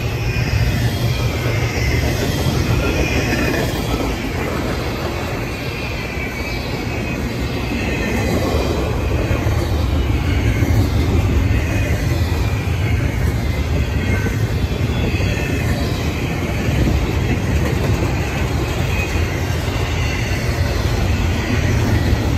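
Norfolk Southern double-stack intermodal freight train passing close by: a steady rumble of wheels on rail, with wheel squeal wavering in and out above it and some clicking over rail joints.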